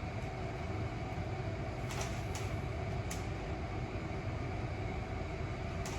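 Steady machine hum of a ventilation fan running, with a few faint short clicks around two to three seconds in and again near the end.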